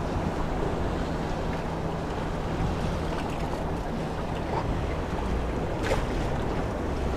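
Wind on the microphone and water sounds around a small fishing boat, with a faint steady low hum underneath. One sharp click comes about six seconds in.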